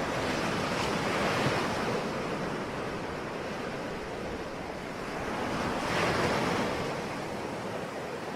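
Ocean surf: a steady wash of waves, with two waves swelling and breaking, one about a second in and another about six seconds in.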